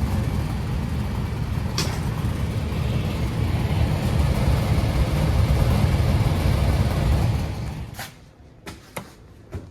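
Furnace blower fan motor running with a heavy low rumble and rattle: the motor is hopping around in its band bracket, a sign of a worn motor mount and fan cage. The rumble drops away sharply about eight seconds in, leaving a few light clicks.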